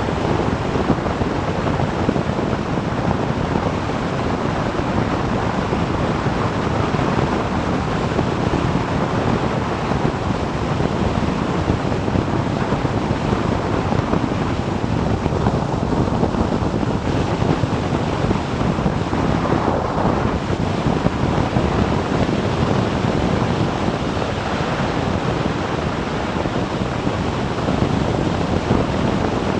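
Steady wind rush over the microphone of a moving motorcycle, blended with road and engine noise.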